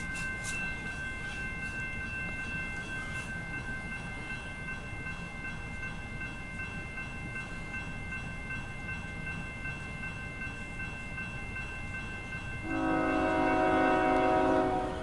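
Approaching CSX freight train, with a steady high-pitched tone running most of the time over a low rumble. About thirteen seconds in, the locomotive horn sounds loud for about two seconds.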